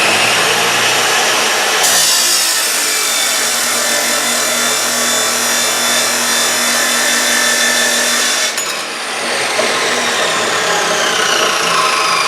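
Power saw cutting through a half-inch steel rod: the motor runs at speed, the cut hisses from about two seconds in until about eight and a half seconds, then the blade winds down with a falling whine.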